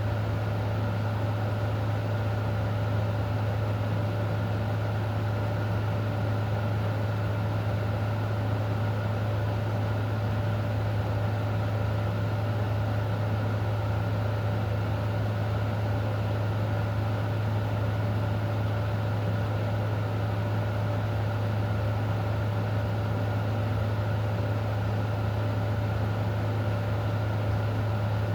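A steady low mechanical hum with a fainter higher tone over an even hiss, unchanging throughout.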